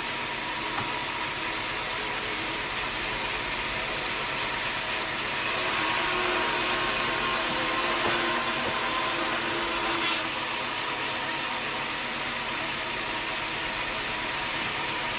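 Sawmill machinery running steadily with a constant hum. From about five seconds in, a louder, hissier stretch lasts about five seconds and stops sharply.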